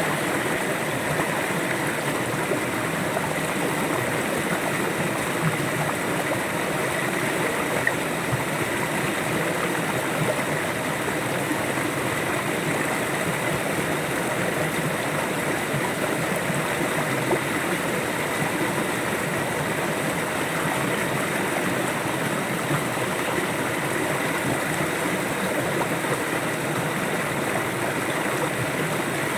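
A river flowing: a steady, even rush of running water that goes on without a break.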